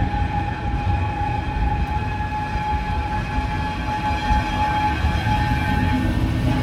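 A train running with a continuous low rumble, and a steady high tone held over it throughout.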